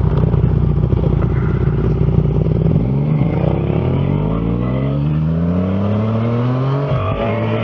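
Motorcycle engine running low and steady, then accelerating, its pitch climbing gradually for several seconds, with a brief dip near the end before it carries on.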